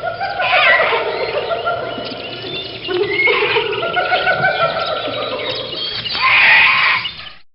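Many animals calling at once, a dense mass of overlapping short calls that cuts off suddenly near the end.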